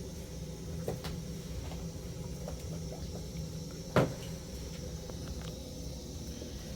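A steady low rumble with a few faint clicks, and one sharp knock about four seconds in, the loudest sound.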